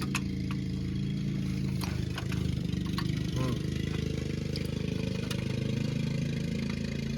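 An engine running steadily at idle with a low hum, with a few sharp metallic clicks and taps over it.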